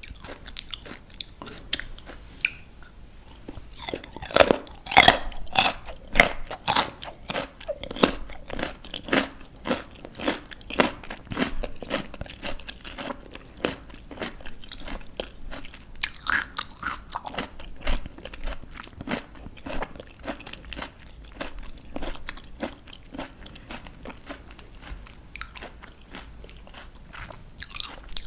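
Close-miked crunching of raw vegetables being bitten and chewed: crisp, sharp crunches one after another, the loudest bites about four to seven seconds in and again around sixteen seconds.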